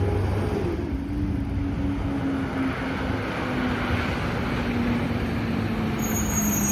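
Peterbilt 520 garbage truck engine running, its pitch dropping quickly in the first second as the revs fall, then sinking slowly and steadily. A high thin whine comes in near the end.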